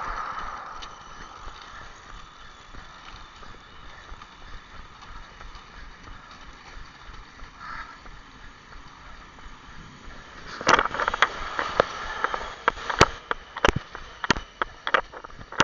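Steady rushing noise of movement along a path, then from about ten seconds in a run of sharp, irregular knocks and rattles, a few each second.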